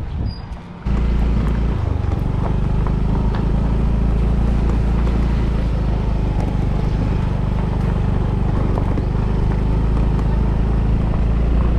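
Motorbike riding along a road: the engine runs steadily under constant wind and road noise, starting abruptly about a second in.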